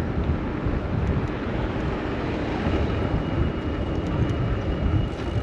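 Steady low rumble of wind on the microphone and city traffic, heard from a moving bicycle. A faint, thin high tone comes in about halfway through.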